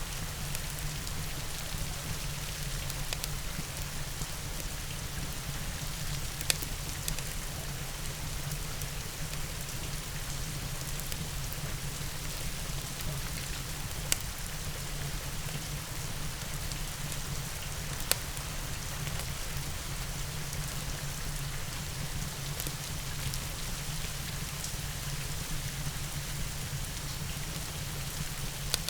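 Steady rain falling on a surface, with a low rumble beneath it. A few sharp pops stand out, about six, fourteen and eighteen seconds in, typical of a wood fire crackling in a fireplace.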